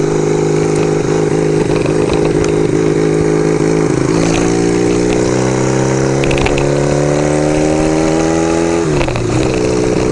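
Motorcycle engine running under way, heard from the rider's position. It holds a steady pitch, then the revs climb gradually from about four seconds in and drop sharply near the end before settling lower.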